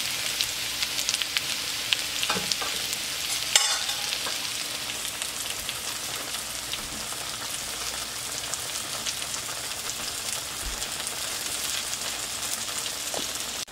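Mushrooms sautéing in butter in a hot skillet: a steady frying sizzle, with a few light utensil clicks and a sharper knock about three and a half seconds in.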